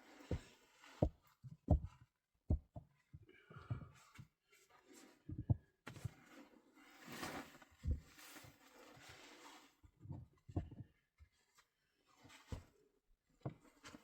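A string of irregular soft thumps and knocks, with rustling noise between them.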